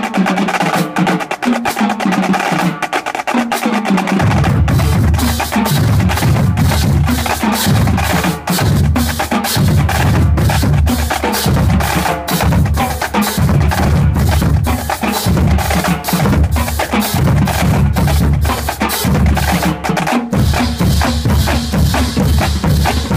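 High school marching drumline playing a fast percussion piece: rapid, dense snare and stick clicks, with bass drums coming in about four seconds in and beating in repeated low pulses.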